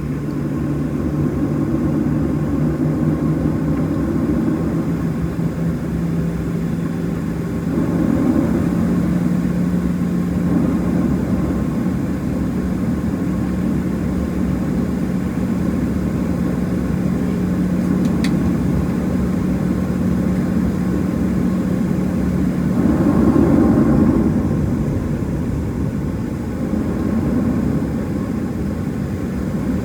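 Cabin noise of a Boeing 737-700 taxiing, its CFM56-7B jet engines at low power: a steady hum with a low drone whose pitch steps up slightly about eight seconds in, growing briefly louder a little past twenty seconds.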